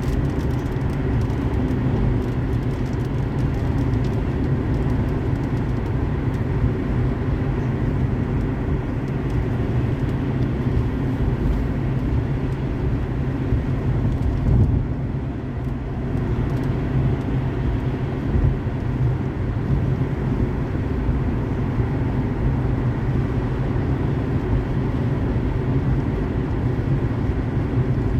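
Steady road noise of a car driving on a highway in the rain: a continuous low drone of engine and tyres with a hiss over it, dipping briefly a little past halfway.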